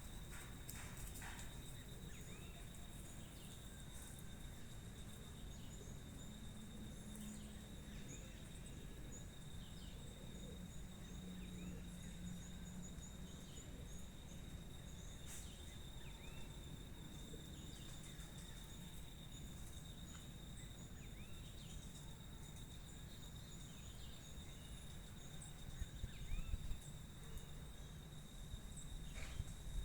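Insect trill holding one steady high pitch throughout, with scattered short bird chirps over a low rumble. A few low knocks near the end.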